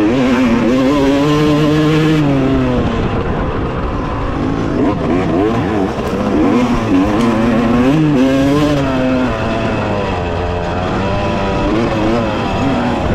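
Two-stroke dirt bike engine, a 2018 Yamaha YZ250X, revving up and down repeatedly under throttle on a motocross track, with its pitch rising and falling through the lap.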